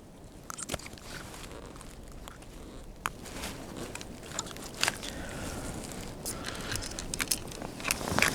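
Scattered light clicks and knocks, like gear being handled on a kayak, over a low steady rumble.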